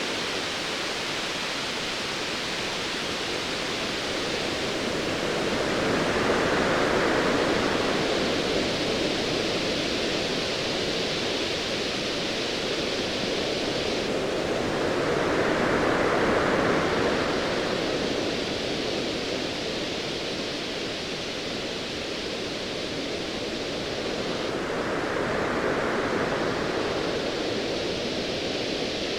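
Ocean waves surging over a steady hiss of surf, swelling and easing three times about nine seconds apart.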